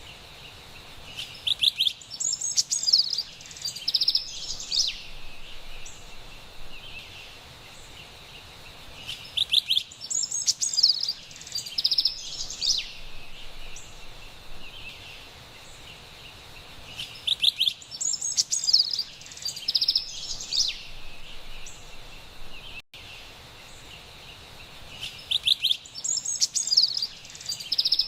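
Carolina wren singing: a bright, high song of rapid repeated phrases, four times about eight seconds apart, over a steady forest background hiss.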